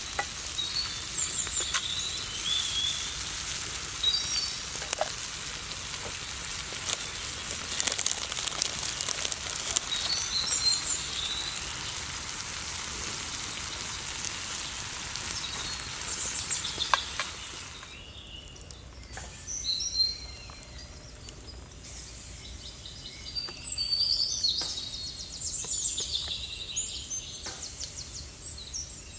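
Meat sizzling in a frying pan, a steady hiss with scattered crackles that cuts off suddenly about two-thirds of the way in, while small birds chirp throughout.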